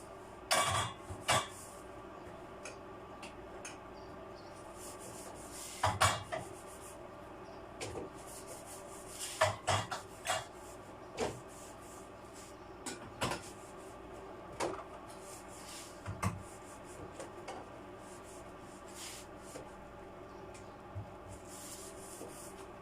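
Bottles and containers being set down and slid onto fridge shelves: irregular knocks, clunks and rubbing, with a steady faint hum underneath.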